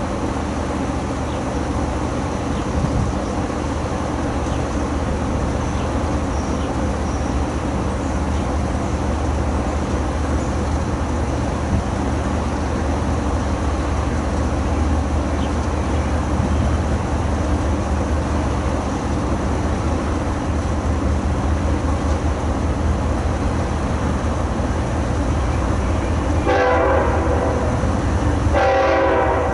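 Freight train running past with a steady low rumble, and a locomotive horn sounding two blasts near the end.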